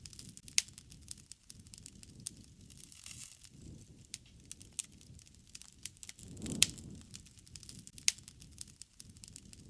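Wood fire crackling: irregular sharp pops and snaps over a low rushing of the flames, which swells a couple of times, with the loudest pop about six and a half seconds in.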